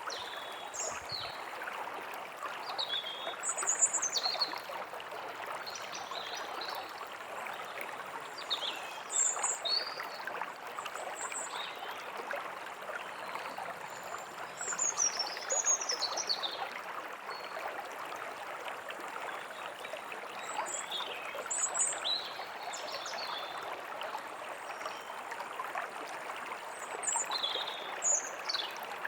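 A stream flowing steadily, with small songbirds chirping and singing short high phrases over it every few seconds.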